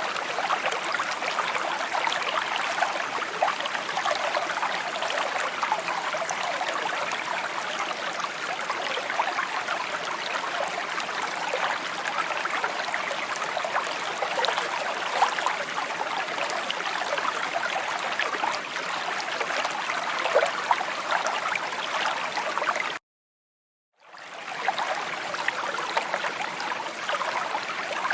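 Small stream babbling and trickling over stones, a steady bright flow. About 23 seconds in it cuts out completely for about a second, then fades back in.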